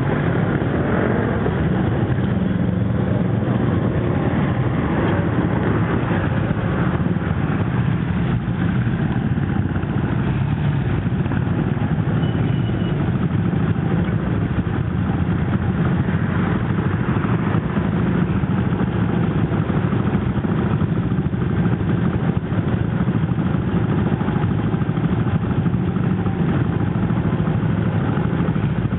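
Motorcycle engine running steadily at an even pitch and level.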